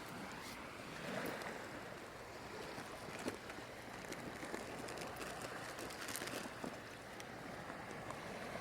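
Steady wash of ocean surf on a beach, with a few light clicks close by.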